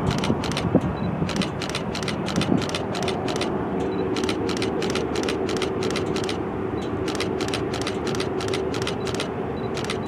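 Distant freight train led by a GE Dash 9 diesel locomotive: a steady low drone and rumble with a held engine tone. Over it runs a rapid high clicking, about five clicks a second.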